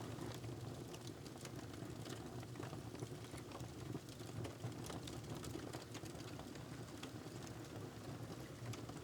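Wood fire crackling in a fireplace: scattered sharp pops and crackles, a few every second, over a steady low rumble of the burning fire.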